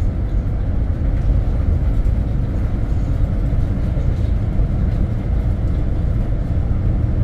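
Steady low rumble of a vehicle on the move: road and engine noise, even throughout.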